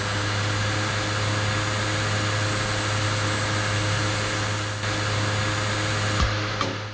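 A miniature portable air conditioner's fan motor runs steadily, with a low hum under a steady rush of air. A knock comes near the end, and the sound cuts off.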